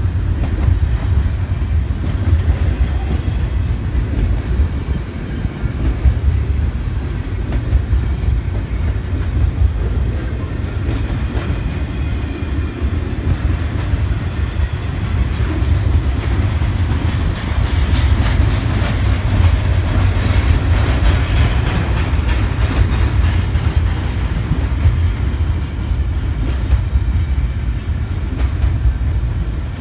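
BNSF double-stack intermodal freight train's container cars rolling past on the rails: a steady, loud low rumble with wheel-and-rail noise and scattered clicks, a little louder a little past the middle.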